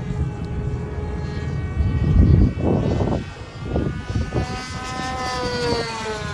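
O.S. model aircraft engine on an RC sport plane running at high revs with its propeller, a steady whine whose pitch slides slowly downward in the second half. A heavy low rumble comes about two seconds in and is the loudest part.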